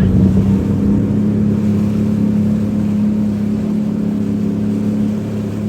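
Motorboat engine running loudly at a steady pitch.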